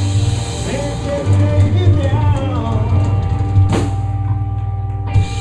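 Live blues band playing: bending guitar notes over a steady drum beat, with a cymbal crash about two-thirds through and another hit near the end.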